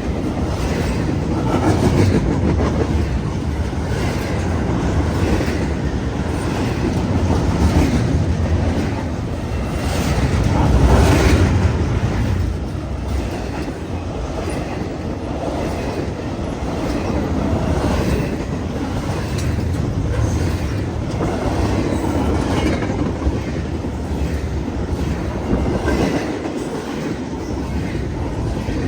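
CN freight train's cars rolling past at about 40 mph, with steady rumble and repeated wheel clatter over the rails.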